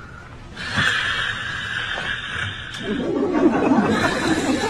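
A group of people chattering and laughing over a steady hiss; the voices get louder about three seconds in.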